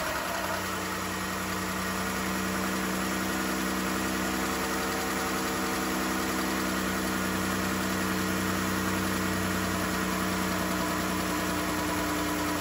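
3.6L Pentastar V6 idling steadily just after starting, run with the accessory drive belt off on a newly replaced harmonic balancer. It sounds much the same as before the repair.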